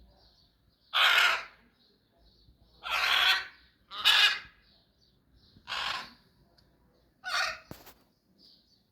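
A large bird calling loudly five times, about one to two seconds apart, each call a short noisy squawk. Faint, repeated high chirping runs underneath.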